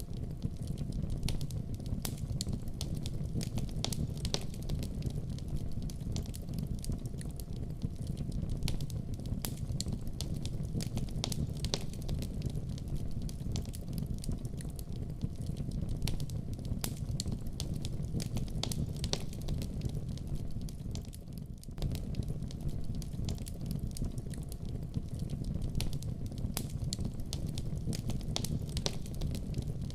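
A fire in a fireplace crackling, with a steady low rumble under many sharp, irregular crackles. The rumble dips briefly about two-thirds of the way through.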